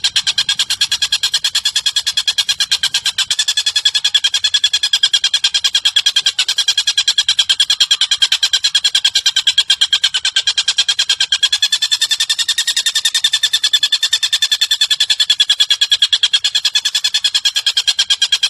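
Recorded bird call used as masteran for lovebirds: a long, unbroken, very rapid even trill carried on two steady tones, one higher than the other.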